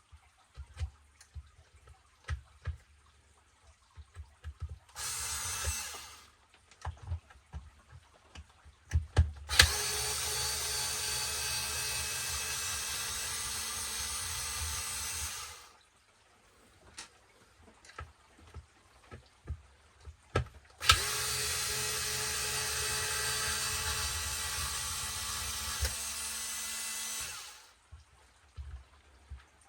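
Cordless electric screwdriver backing out the screws that hold the motor mount to the base of an RC truck's chassis: a brief run about five seconds in, then two steady runs of about six seconds each. Light clicks and knocks of handling come between the runs.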